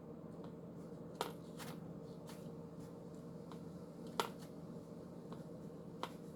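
A few sharp, scattered clicks, about five, the loudest a little past four seconds in, over a steady low hum.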